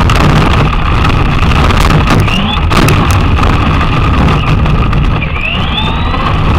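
Traxxas Slash RC car driving, heard from a camera mounted on it: a loud, steady rumble and rattle, with the motor's whine rising in pitch briefly a few times as it speeds up.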